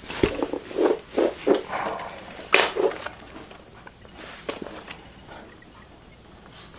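Handling sounds of cables and connectors being worked inside a desktop computer case: a run of sharp plastic and metal clicks and short knocks in the first three seconds, two more clicks about halfway through, then quieter fiddling.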